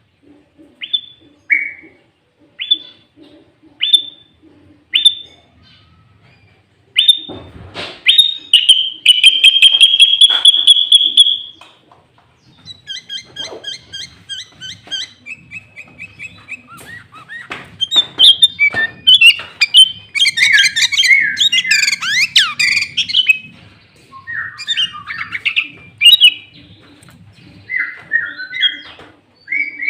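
Sooty-headed bulbul (kutilang) singing loudly: a run of short call notes about once a second, then a long trilled phrase, then varied rapid chattering and whistled phrases. Its song is filled with mimicked green leafbird (cucak ijo) phrases.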